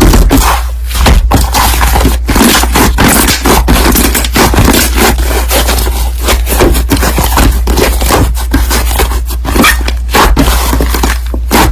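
Crunchy slime being squished and kneaded by hand, giving a dense, continuous run of crackling clicks and crunches.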